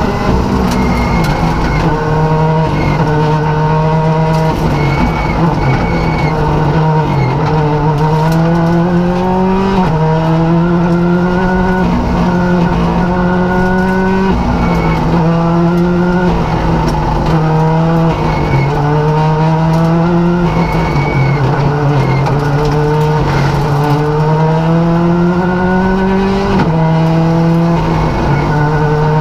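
Rally car engine heard from inside the cockpit, driven hard. It revs up through each gear, climbing in pitch, then drops sharply at each gear change, over and over, with rapid up- and downshifts.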